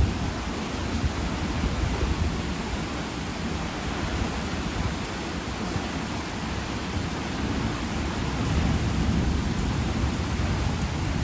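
Heavy summer rain falling steadily as an even hiss, with a low rumble underneath that swells about eight seconds in.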